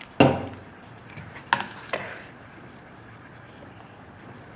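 Three sharp knocks, like hard objects struck or set down: the first and loudest just after the start, then two close together about a second later.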